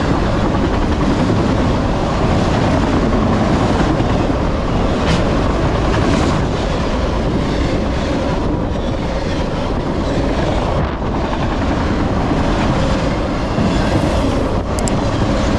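Freight train of autorack cars rolling past close by: a steady rumble and rattle of steel wheels on the rails.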